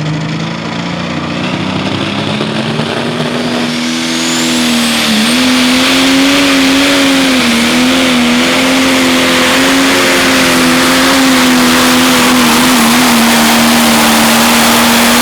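Turbocharged diesel engine of a 10,000 lb Pro Stock pulling tractor under full load on a pull. Its pitch climbs about four to five seconds in and then holds at high revs with small wavers. A thin high whistle rises over the first few seconds.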